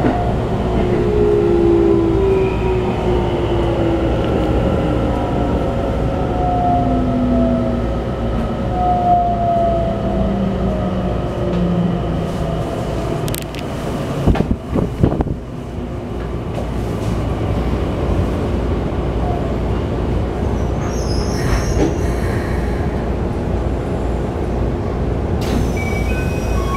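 Running sound inside a Keikyu New 1000 series commuter train, with the whine of its Toshiba IGBT VVVF inverter falling in pitch over the first half as the train slows for the station. Wheels rumble on the rails throughout, with a few sharp clicks about halfway through.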